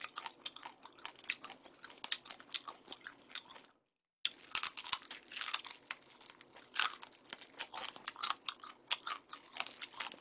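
Close-up crunching and chewing of a whole swimming crab, shell and all: the shell cracks between the teeth in dense, irregular crackles, loudest a little after the middle. The sound drops out completely for about half a second just before the middle.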